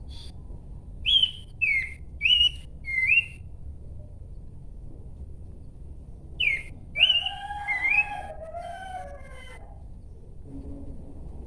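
Pelanduk semak babbler singing: a quick series of four or five short, clear whistled notes, each a fast slurred glide. After a pause of about three seconds comes a longer, more jumbled phrase of several notes at once.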